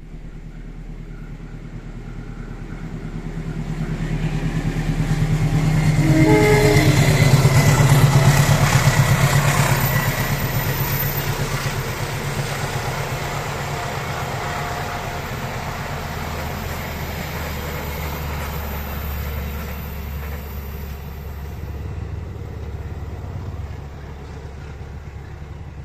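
Passenger train hauled by a CC 203 diesel-electric locomotive passing by: the locomotive and wheels on the rails grow louder over the first several seconds, peak about eight seconds in, then fade slowly as the carriages roll past with a steady rhythmic clatter.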